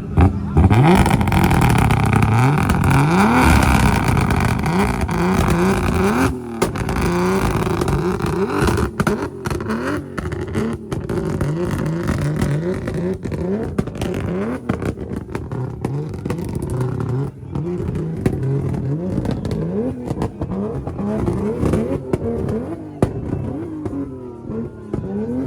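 Car engines revving again and again, many short rising revs overlapping one after another, louder and denser in the first six seconds.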